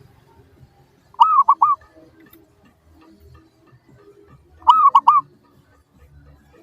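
Zebra dove (perkutut) cooing: two short phrases about three and a half seconds apart, each a longer arched note followed by two or three quick shorter ones.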